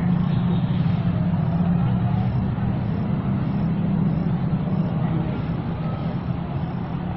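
Steady low rumble of a running engine, level throughout, over outdoor background noise.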